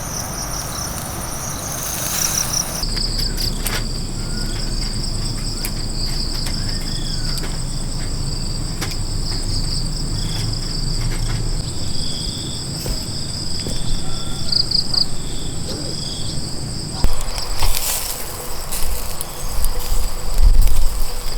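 Insects chirping in a steady high trill throughout. Irregular knocks and rustling grow louder over the last few seconds.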